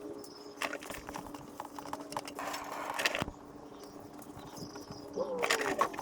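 Irregular metallic clicks and knocks of hand tools and the cup-type wrench working the oil filter housing loose and handling it during an oil filter removal.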